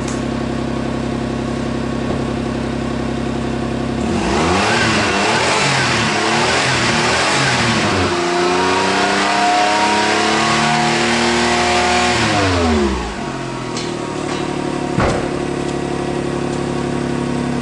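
Car engine idling through its stock muffler, then free-revved in neutral: the pitch sweeps up and down a couple of times, holds high around 5000 rpm for several seconds, and falls back to idle. The exhaust note is much quieter than with the previous aftermarket muffler, and the rattle from inside that muffler is gone.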